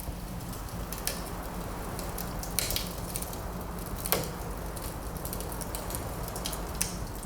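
Wood fire crackling in a fireplace: scattered sharp pops and snaps over a steady low rumble, the loudest pops about two and a half and four seconds in.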